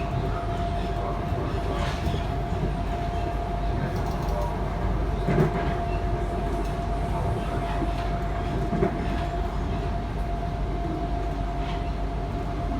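Sydney Trains Tangara electric train running, a steady rumble and hum with a constant whining tone, and two louder knocks about five and nine seconds in.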